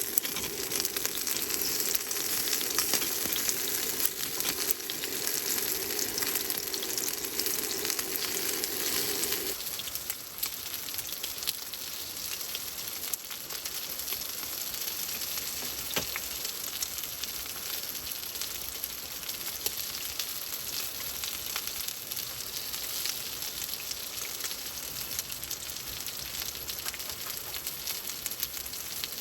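Food sizzling and crackling as it fries in a pan, steady throughout. A low hum under it stops about a third of the way in, and the sizzle goes on a little quieter.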